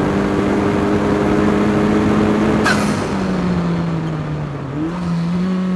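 Turbocharged Honda Civic Type R four-cylinder engine in an Ariel Atom 4 on track, holding a steady note. About two-thirds of a second before the middle it lifts off with a short sharp hiss, and the pitch drops and keeps falling as the car slows for a corner. The pitch jumps back up shortly before the end, as on a downshift.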